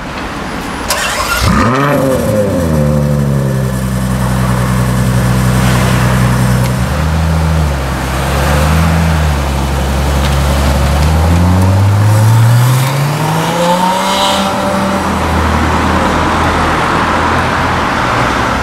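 Ferrari F12's V12 engine: the revs flare up sharply about two seconds in and drop back to a steady idle. Then, after small dips, the revs climb gradually as the car pulls out and moves off, settling to a steady low-speed run.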